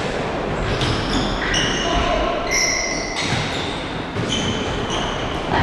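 Mini-football match in an echoing sports hall: ball bounces and kicks with short high squeaks, over a steady din of play.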